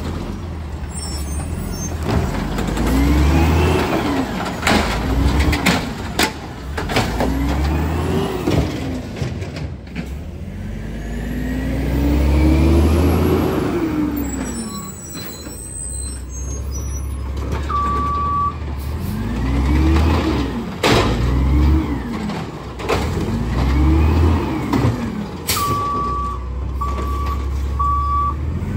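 Garbage truck's diesel engine revving up and falling back again and again as it works, with several sharp bangs and clatter. A single beep comes past the middle, and near the end a backup alarm beeps steadily about once a second.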